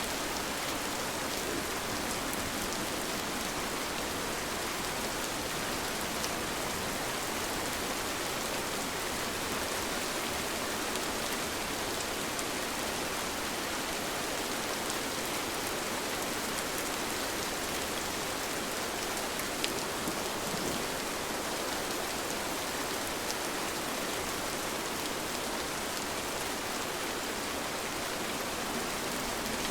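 Steady rain falling, an even hiss with a few single drops ticking through it.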